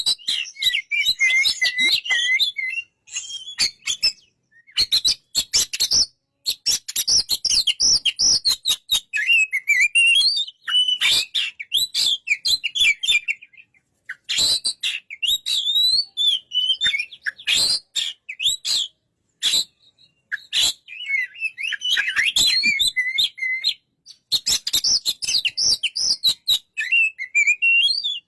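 Oriental magpie-robin (kacer) singing in long, varied phrases of whistles and chirps, with short pauses and sharp clicks between them.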